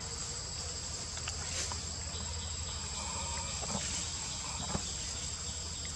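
Steady high-pitched insect chorus with a low background hum, broken by a few faint clicks and one sharper tap a little before the end.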